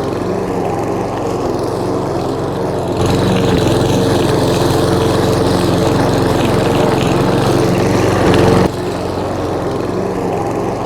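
Petrol lawnmower engine running steadily. It grows louder and closer about three seconds in, then drops back suddenly near the end.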